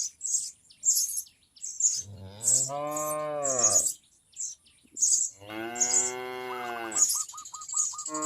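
A cow mooing twice, each a long low call of about a second and a half, starting about 2 and 5.5 seconds in. Throughout, small birds chirp in short high notes about twice a second.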